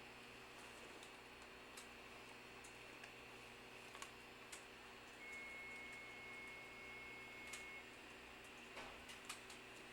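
Faint interior sound of a stopped train waiting to depart: a low steady hum with scattered light clicks, and a thin high tone for a couple of seconds midway.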